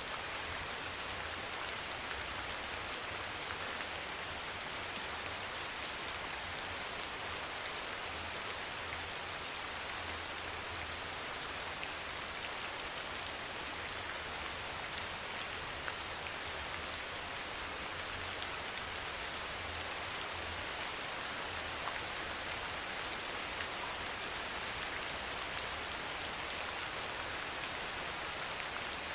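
Steady rain falling evenly, with scattered individual drops ticking through it.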